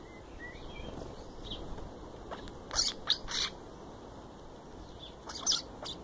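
Garden birds calling at close range: a few faint chirps, then three short, loud calls about three seconds in and two more just before the end.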